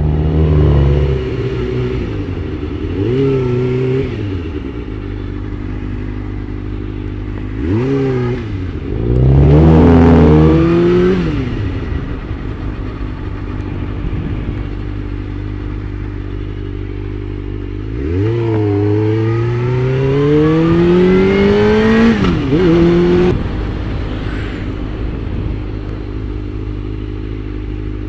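Suzuki GSX-R600 sportbike's inline-four engine on the move, its pitch rising and falling with the throttle several times. The loudest rev comes about ten seconds in, and a long, steady climb in pitch comes later before it drops back to a lower steady note.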